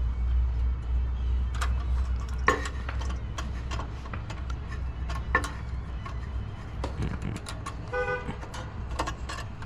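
Scattered sharp clicks and light metal taps of hand work on garden tiller parts, over a low steady rumble that fades out about two-thirds of the way through. A short horn-like tone sounds about eight seconds in.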